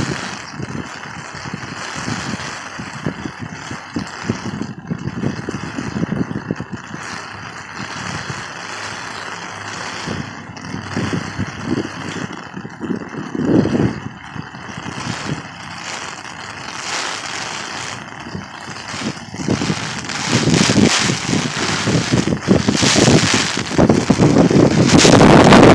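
Heavy rain falling on a street, with wind buffeting the microphone in gusts. The rain and wind grow louder from about twenty seconds in.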